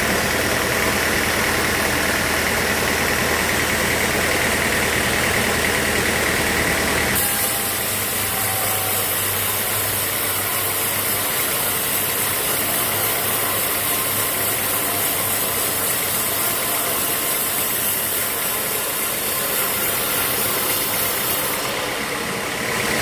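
Sawmill machinery running with a steady engine-like drone. About seven seconds in the sound changes abruptly: the low rumble drops away and a high hiss takes over.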